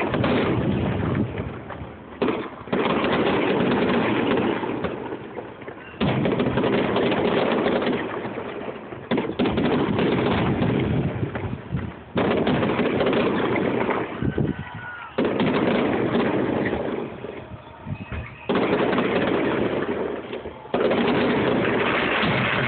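Fireworks display: about eight loud booms from aerial shells, one every few seconds, each trailing off in a rumble that fades over two or three seconds.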